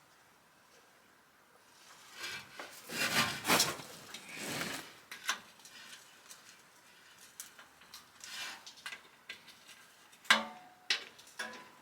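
Hand work on metal parts: a few scraping, rubbing swishes, then scattered small clicks and clinks, the loudest a ringing metallic clink about ten seconds in.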